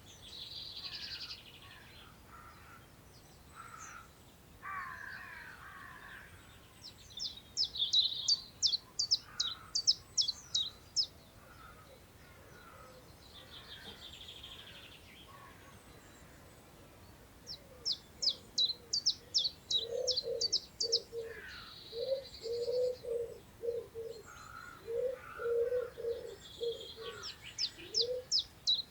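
Songbirds singing: several phrases of rapid, high, sharp notes repeated about four times a second, with softer calls between them. From about two-thirds of the way in, a pigeon coos in low repeated phrases.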